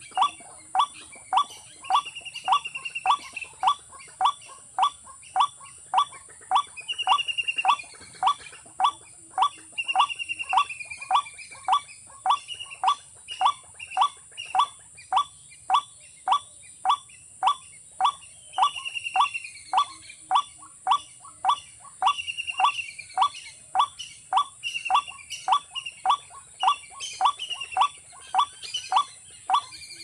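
A bird calling a long, monotonous series of short, sharp notes, about three every two seconds, with a higher slurred, falling note now and then.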